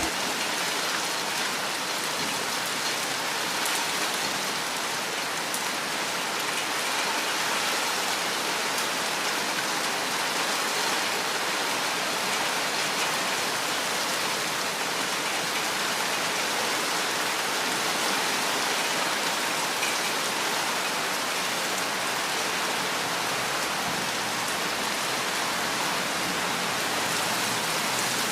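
Rain falling steadily, an even hiss that stays at the same level without letting up.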